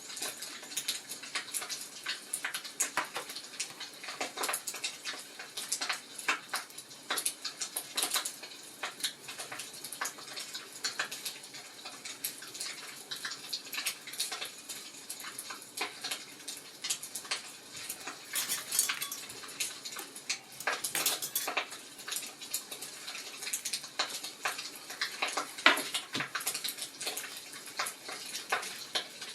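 Wood fire crackling, with a steady stream of irregular small pops and snaps and one louder pop near the end.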